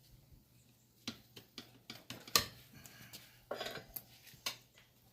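Metal tools clinking and knocking during motorcycle tyre and tube work: a string of sharp clicks, the loudest about halfway through, with a short scrape a little later.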